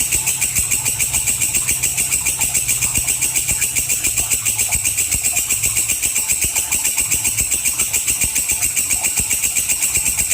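Walang kecek, an Indonesian bush cricket, calling: a shrill, fast and perfectly even train of pulses that runs steadily without a break.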